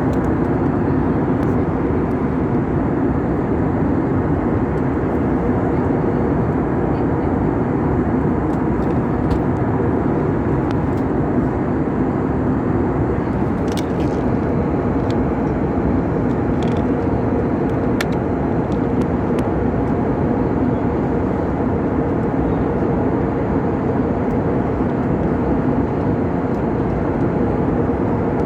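Steady cabin noise of an airliner in flight: an even rumble of the engines and airflow, with a few faint clicks around the middle.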